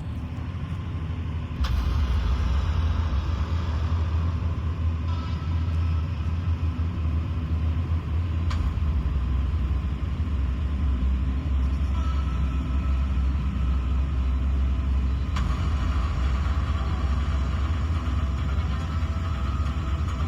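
Steady low engine rumble of idling semi trucks, getting louder about two seconds in and then holding even.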